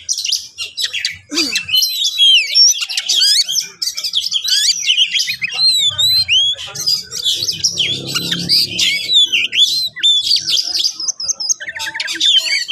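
Oriental magpie-robin (kacer) in full, excited song: a fast, varied stream of whistles, chirps and trills with quick rising and falling notes and barely a pause.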